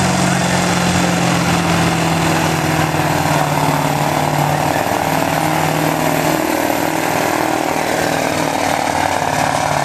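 Diesel pickup truck engine running flat out under heavy load, pulling a weighted sled in a truck pull. It is loud, harsh and steady, with the pitch sagging slightly in the first few seconds and then holding.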